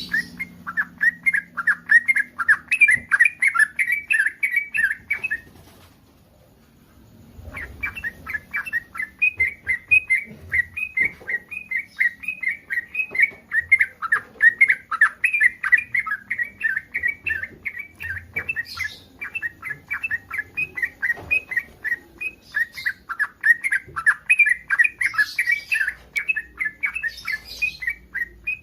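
Yellow-vented bulbul (trucukan) in breeding condition singing a fast, unbroken run of short chattering notes, about four or five a second, with one pause of about two seconds some six seconds in.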